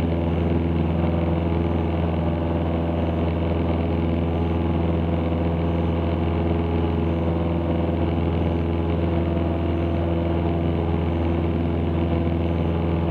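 Cessna 162 Skycatcher's Continental O-200 four-cylinder engine and propeller running at full power in the climb just after takeoff, a steady, even drone that holds constant in pitch and level.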